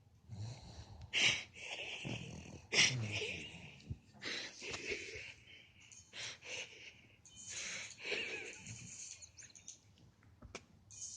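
A dog snoring in its sleep, a wheezy rasp on each breath coming irregularly every second or two, with a few sharper, louder snorts.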